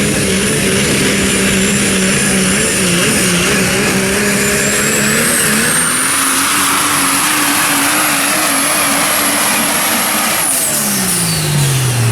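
Super stock diesel 4x4 pulling truck running hard under load, its engine note climbing with a high turbocharger whine that rises and holds. About ten seconds in the throttle lifts and the engine and turbo whine wind down together, the end of the pull.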